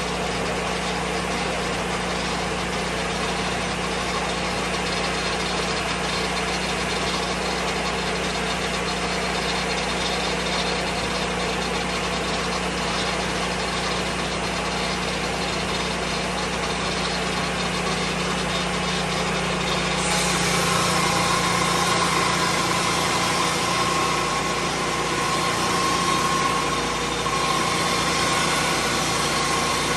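Lucas Mill 10-30 portable swing-blade sawmill's engine running steadily. About two-thirds of the way through, the sound changes and gets a little louder, and a steady whine comes in.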